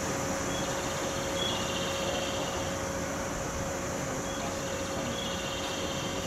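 Stationary 413/455 series electric train idling at a platform: a steady hum of its onboard auxiliary equipment, roof air conditioners included, with a steady mid-pitched whine over it.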